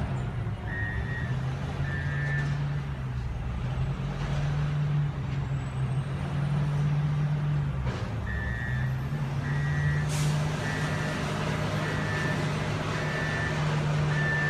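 Garbage truck's diesel engine running with its reversing alarm beeping, about one beep a second, twice near the start and then again steadily from about eight seconds in.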